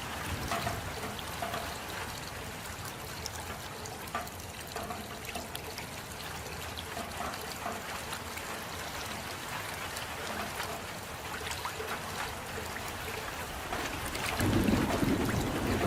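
Steady rain with water trickling, and scattered small drop ticks throughout. About fourteen seconds in, a louder low rumble comes in and carries on.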